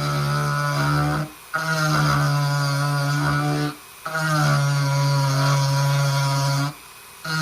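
Dremel 4300 rotary tool with a scroll bit running at a steady high speed, a buzzing drone that wavers slightly as it cuts into the wood. It cuts out abruptly three times, each time for a fraction of a second.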